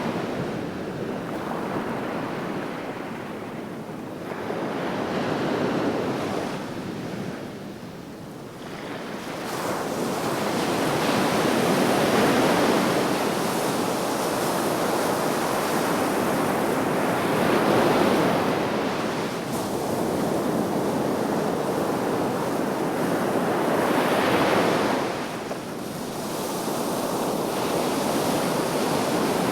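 Sea waves breaking and washing on the shore, the surf swelling and ebbing in slow surges, with some wind on the microphone.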